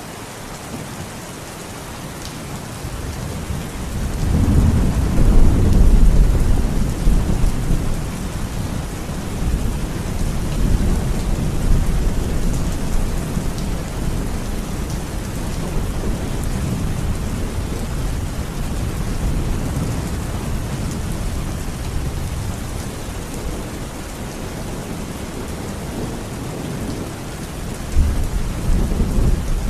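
Steady heavy rain with rolling thunder: a deep rumble builds about four seconds in, is loudest a couple of seconds later and dies away slowly, and another roll of thunder starts near the end.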